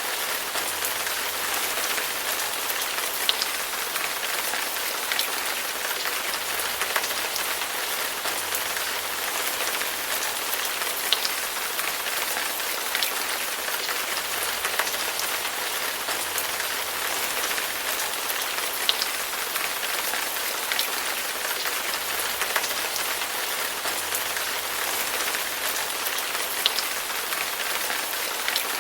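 Steady rain falling on a hard surface: a dense even patter with occasional sharper, louder drops standing out.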